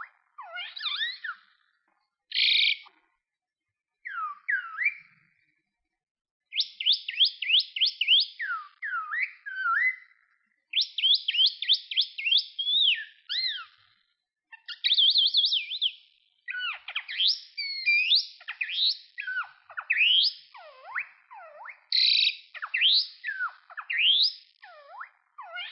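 Common myna singing: fast runs of whistled notes sweeping down and up in pitch, with a few harsh rasping notes, in phrases broken by short pauses.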